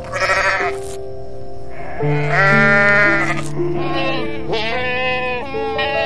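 Goats bleating several times, some calls long and wavering, over soft piano music.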